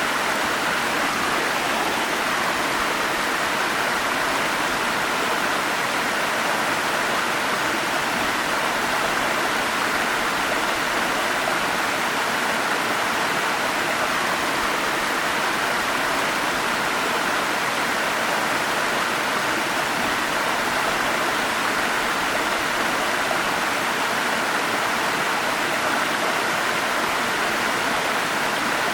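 Forest stream and falling water rushing steadily, an even, unbroken hiss with no single splashes standing out.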